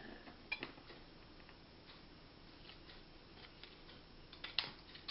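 Scissors cutting iron-on edging strip: a few faint clicks, then sharper snips near the end.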